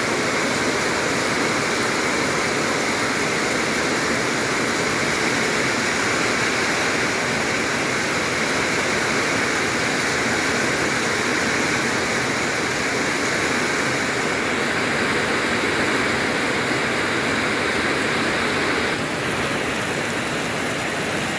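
Heavy rain pouring down in a steady, lashing downpour, a dense even hiss of water.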